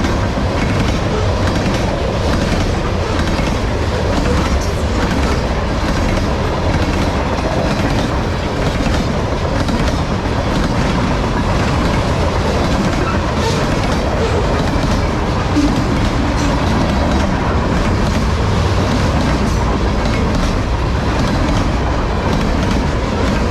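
Railway cars rolling past at speed, their wheels clicking steadily over the rail joints in a continuous loud rumble.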